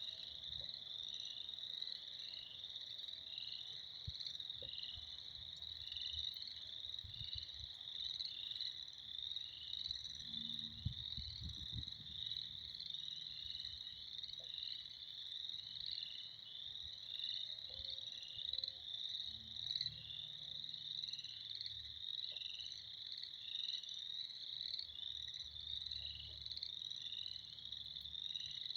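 A dense spring frog chorus: many frogs calling at once in overlapping, fast-repeating high notes, a steady racket. There is some faint low rumbling about ten to twelve seconds in.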